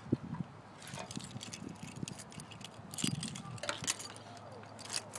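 Irregular small clicks and light rattles over a faint low hum; no motorcycle engine is heard running.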